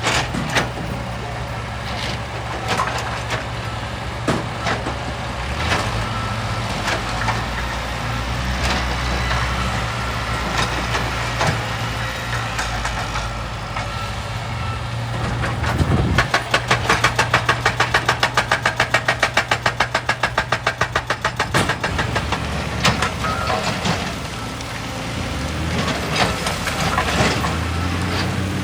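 Excavator's diesel engine running steadily, with scattered knocks and clatter. About halfway through, a rapid, even hammering of about seven blows a second sets in and lasts some five seconds.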